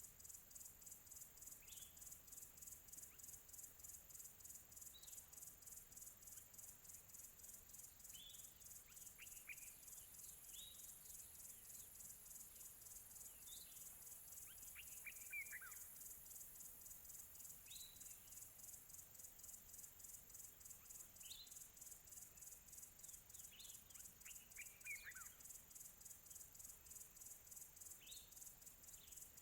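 Faint field crickets chirping steadily in rapid, even pulses, with birds calling far off: short falling chirps every few seconds, and longer runs of falling notes about 9, 15 and 25 seconds in.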